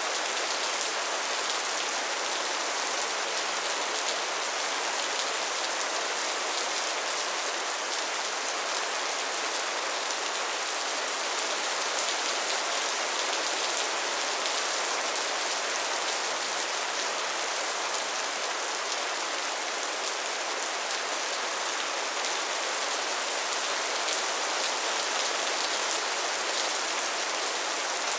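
Soft, steady rain falling on a surface, an even hiss with fine drop patter.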